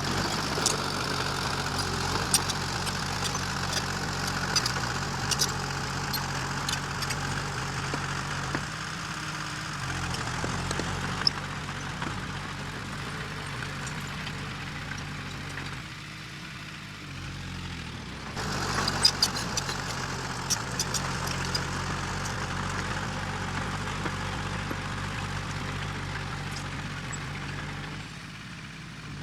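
Diesel engine of heavy earthmoving machinery running steadily, with sharp metallic clicks and clanks on top. The sound shifts suddenly several times, as if between shots.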